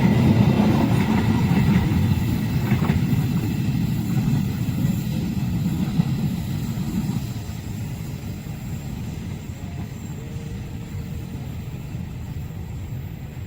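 A passenger or freight train passing on the rails with a low rumble of wheels and cars, dying away over the second half as the train moves off.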